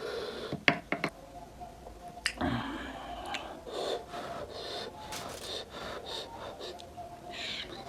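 Close-up mukbang eating sounds: chewing and sharp mouth clicks with breathing and gasps, from a person eating spicy mutton nalli.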